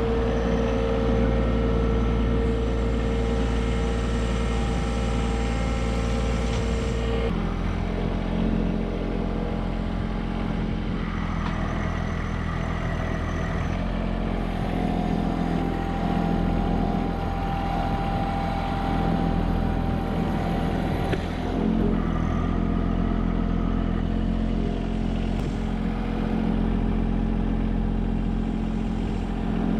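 Small John Deere subcompact tractor's diesel engine running steadily while working with pallet forks. Its note changes abruptly about seven seconds in.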